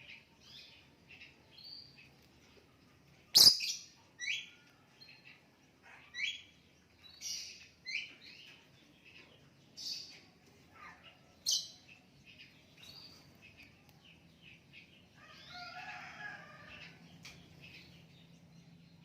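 Lovebird calling in a series of short, sharp, high chirps, with a single loud click about three and a half seconds in and a longer run of chattering near the end.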